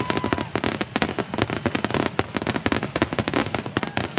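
Aerial fireworks going off in a rapid, dense barrage: overlapping cracks and bangs, many per second, heard through a camera's built-in microphone.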